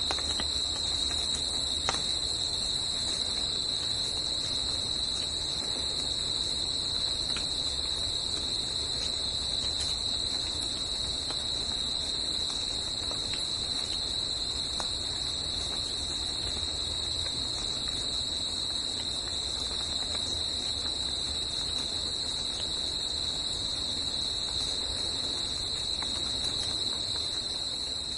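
Steady chorus of insects, a continuous high-pitched trill that holds without a break, over a low background rumble.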